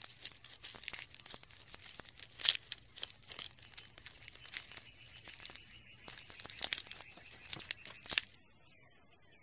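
A steady high-pitched whine with dense, irregular crackling clicks over it. One louder click comes about two and a half seconds in, and the crackling stops a little after eight seconds while the whine goes on.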